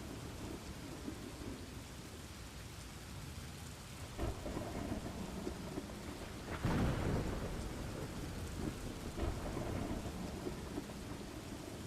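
Thunderstorm ambience: steady rain with low rumbling thunder. A short thunder crack comes about four seconds in, and a louder roll of thunder, the loudest moment, about six and a half seconds in.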